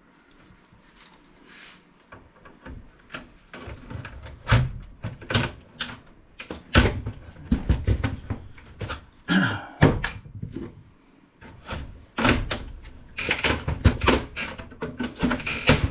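Irregular clicks, knocks and thunks of a Dell Alienware PC case's front panel being worked and pried off by hand. They start sparse after a quiet first couple of seconds and come thick and fast near the end.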